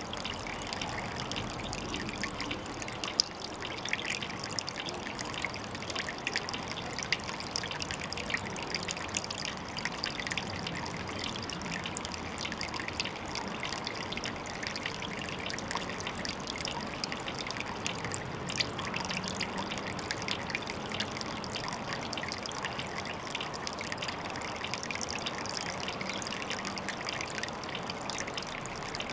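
Water trickling steadily, with many small splashing ticks.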